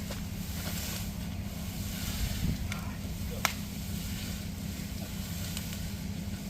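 Vehicle engine idling steadily, with a few sharp snaps over it, the loudest about three and a half seconds in.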